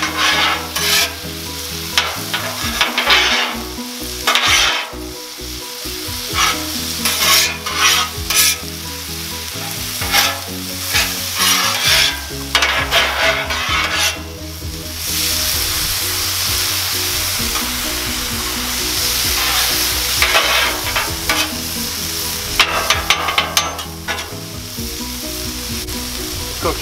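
Vegetables sizzling on a Blackstone steel flat-top griddle while metal spatulas scrape and toss them in repeated strokes. About halfway through, the scraping stops for several seconds and only the steady sizzle is left, then the scraping resumes briefly.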